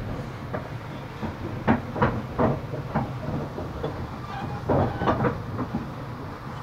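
Passenger train running along the track: a steady low rumble with irregular sharp clacks of the wheels over the rail.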